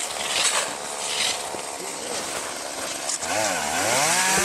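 Chainsaw running with a noisy cutting sound, then revved up about three seconds in, its pitch rising and holding high.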